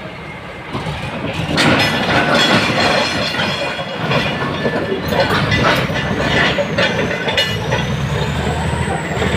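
Bulldozer's steel crawler tracks clanking and squealing on metal as the machine moves, with its diesel engine running underneath. The clanking gets louder about a second and a half in and keeps going.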